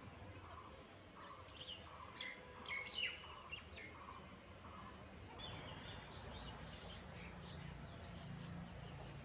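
Garden birds calling: short chirps and call notes, the loudest cluster about three seconds in, with a run of soft lower notes about twice a second during the first half. A steady low background rumble runs underneath.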